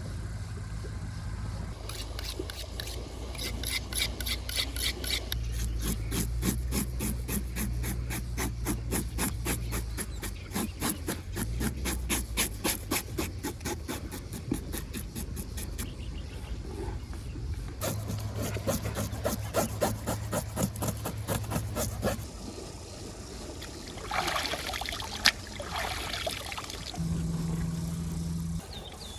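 Rapid rhythmic scraping strokes, about five a second, in two long runs with a short pause between, over a steady low rumble.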